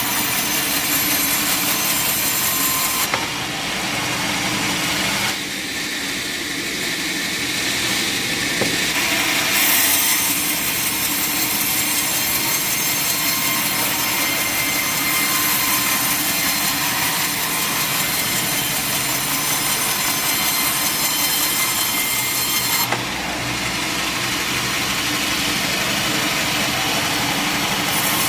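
Sawmill saw running and cutting through wood: a steady, loud mechanical noise that shifts abruptly several times.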